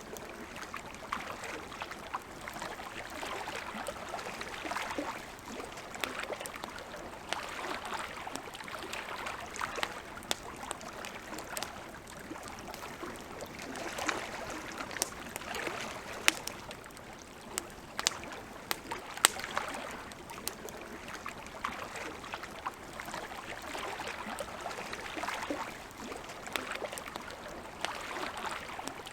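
Wood campfire crackling, with sharp pops and snaps at irregular intervals over a soft hiss that swells and fades every few seconds.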